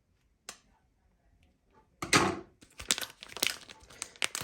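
Near silence for about two seconds, then a plastic pouch of instant noodles being cut open with scissors: a sudden loud crinkle, then rustling with many sharp clicks and crackles.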